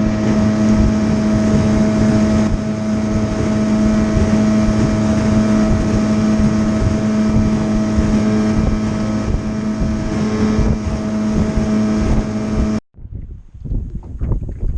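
Small boat's outboard motor running at a steady speed, with wind buffeting the microphone. It cuts off abruptly near the end, leaving only gusty wind noise.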